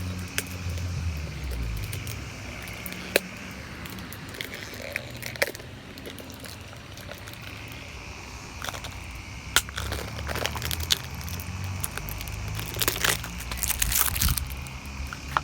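Scattered clicks, knocks and crinkling from a new oil filter and its packaging being handled, busiest a little before the end. Under it runs a steady low hum from a lawn mower engine.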